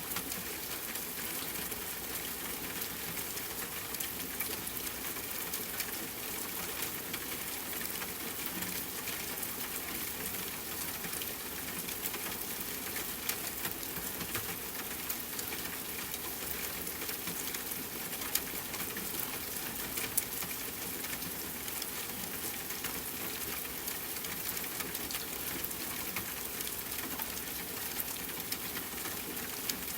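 Steady rainfall mixed with the crackle of a wood fire: an even hiss with scattered small pops, and a few sharper ones about halfway through and a little after.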